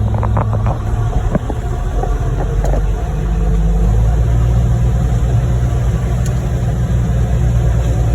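Heavy diesel truck engines running steadily as a concrete pump truck draws concrete from a ready-mix truck's hopper, with a few short knocks in the first second and a half. The engine sound grows louder and steadier about four seconds in.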